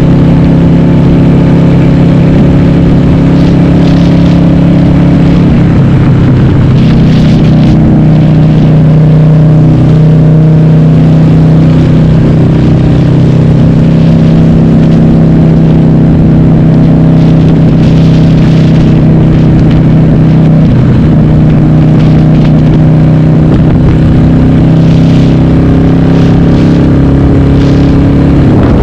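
Harley-Davidson Sportster's air-cooled V-twin, upgraded to 1200, running through Cobra Speedster 909 mufflers with the dB killers removed, heard from on board while riding. It runs loud and mostly steady, its pitch shifting a little and dipping briefly about two-thirds of the way through.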